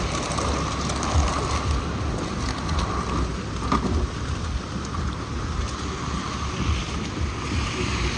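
Wind buffeting the microphone in a snowstorm, an uneven low rumble over a steady hiss of outdoor noise.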